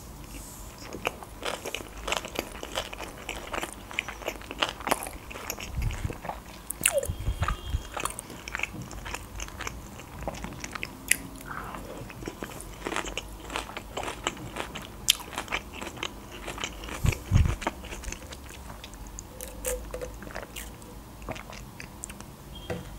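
Close-miked chewing of a large sushi roll: wet mouth sounds and many short clicks, irregular throughout, with a few soft low thumps.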